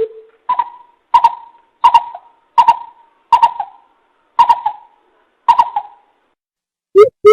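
Coucal (bìm bịp) calling, played as a lure: a series of hollow hoots about one every 0.7 seconds, each starting sharply. Near the end it breaks into a faster run of deeper hoots.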